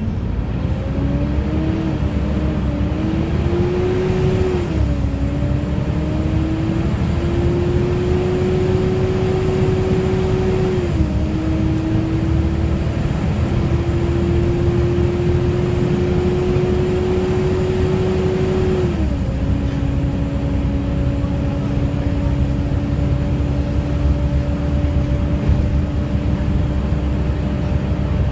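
Volvo B7TL bus running, its engine cooling fan giving the loud 'hoover' whine. The whine climbs slowly and drops suddenly in pitch three times, over the steady low drone of the engine.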